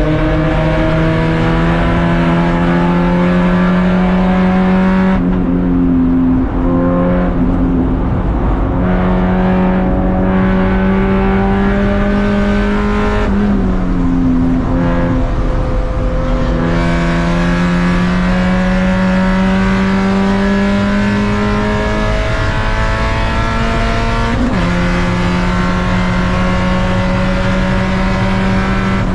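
Race car engine under load, its note climbing slowly through long pulls, with sudden pitch changes at gear shifts about 5, 13 and 24 seconds in.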